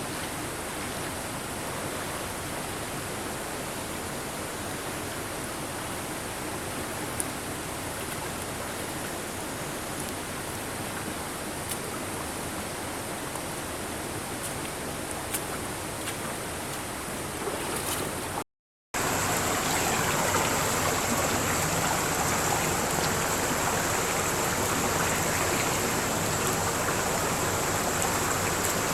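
Mountain stream rushing steadily over rocks, with a few faint ticks in the first part. About two-thirds of the way through the sound cuts out for a moment and comes back louder and brighter.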